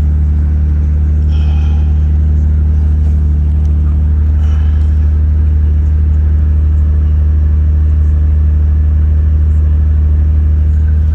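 1996 Nissan Skyline GT-R R33's RB26DETT twin-turbo straight-six idling steadily shortly after a cold start, which the owner calls a healthy engine.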